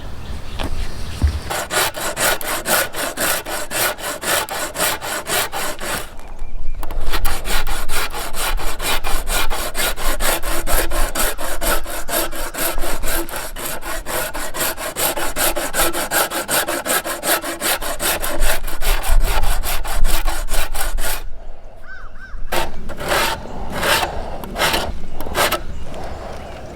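A hand tool cutting into yew wood in quick, even back-and-forth strokes, about five a second. It breaks off briefly twice, then goes on with slower, separate strokes near the end.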